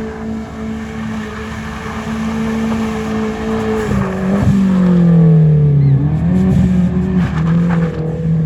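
Car engine held at steady high revs, then the revs fall about four seconds in, pick up again and settle as it gets louder.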